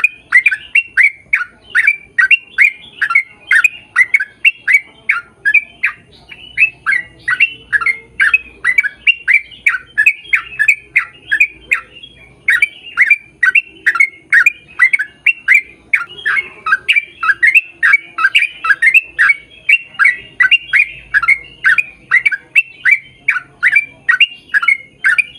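A bird calling over and over in short, harsh squawks, about four a second, with brief pauses about six and twelve seconds in.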